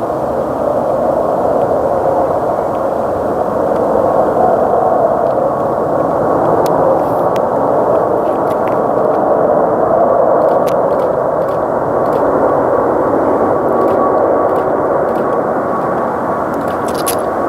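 Jet airliner's engines running at high power, a loud, steady rush of noise with a faint steady whine in it.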